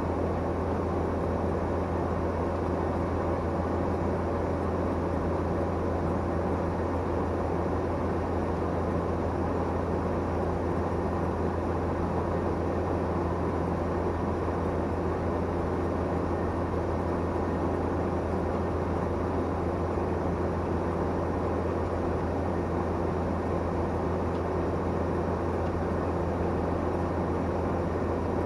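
Tractor engine running steadily under load while driving, a constant low drone that does not change.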